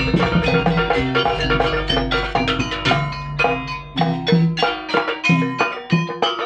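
Live instrumental music: drums and rapidly struck, pitched percussion playing a quick, busy rhythm, with no singing.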